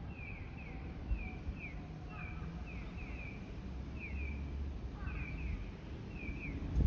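A small bird chirping over and over in short, quick, falling notes, often in pairs. Low wind rumble on the microphone runs under it, with a thump near the end.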